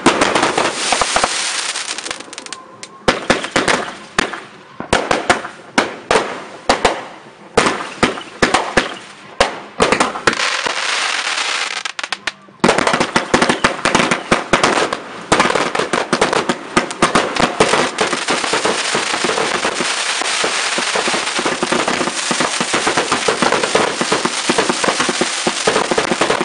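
Fireworks display: a string of separate sharp bangs from bursting shells, then about halfway through a sudden switch to a dense, unbroken barrage of rapid bangs and crackle.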